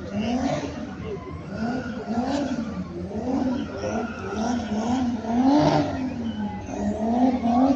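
Car engine revving up and down over and over, its pitch rising and falling in quick arches about every half second to three-quarters of a second.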